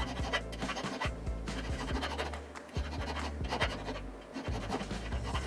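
Flat steel hand file scraping the rim of a stack of wooden discs in repeated rasping strokes as the disc is truing up by hand.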